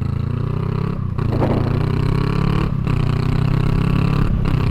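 Honda Rebel 500's parallel-twin engine pulling under acceleration, rising in pitch through the gears, with brief breaks about a second in, near the middle and near the end as the rider shifts up.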